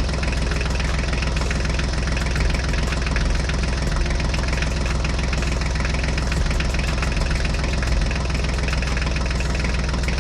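An engine idling steadily, with a deep low rumble.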